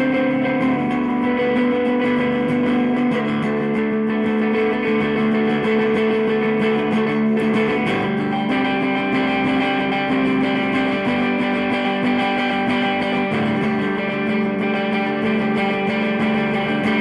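Electric guitar with Lindy Fralin Broadcaster pickups, neck and bridge pickups mixed, played through a Fender Blues Deville 212 tube combo amp. Sustained notes and chords ring out and change every second or few, with a clear change about eight seconds in.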